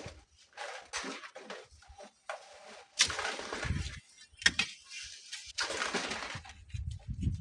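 Strong gusty wind buffeting the microphone with a low rumble that comes and goes, mixed with irregular rustling noise and a couple of sharp knocks, about three seconds in and again about a second later.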